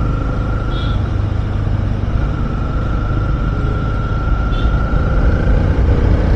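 Honda CB300R's single-cylinder engine running steadily under way, with road and wind noise, and a faint steady high whine that drops out about a second in and comes back.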